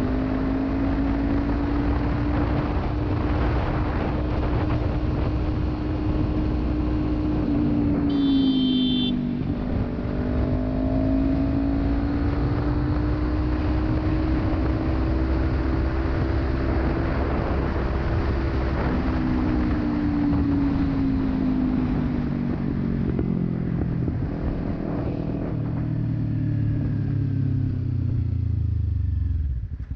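Kawasaki Ninja 300's parallel-twin engine through a Delkevic aftermarket exhaust, riding at a steady speed. About eight seconds in the engine note dips briefly, together with a short high beep, and then slowly climbs. Over the last ten seconds the note falls steadily as the bike slows.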